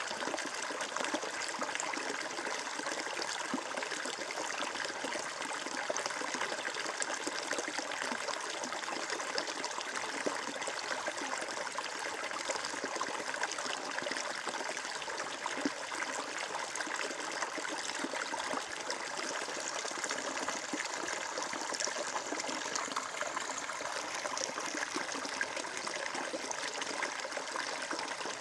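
Water flowing steadily: a continuous, even rush of moving water with no pauses or changes.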